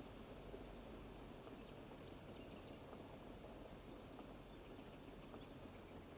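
Soft, steady rain with scattered drips ticking sharply.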